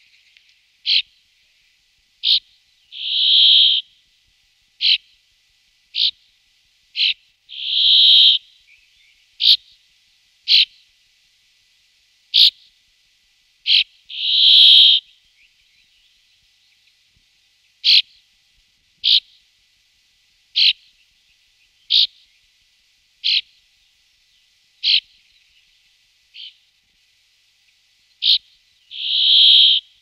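Brambling calling: short, sharp, high notes about once a second, with four longer notes of about a second that swell in loudness.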